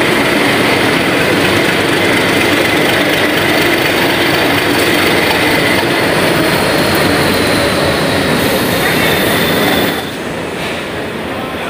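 Passenger train with LHB coaches rolling into a station platform, its wheels squealing with steady high tones over the rumble of the running gear. About ten seconds in the sound cuts to a quieter passing train.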